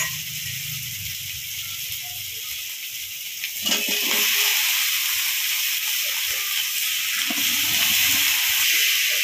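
Spice paste frying in hot oil in a kadai, a steady sizzle. About three and a half seconds in there is a clatter as chunks of giant taro (maan kachu) are tipped in, and the sizzle grows louder as they are stirred.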